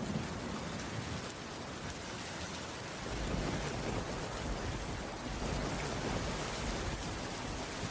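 Steady rain falling on a wooden cabin roof, an even hiss of drops. A low rumble comes in under it about three seconds in.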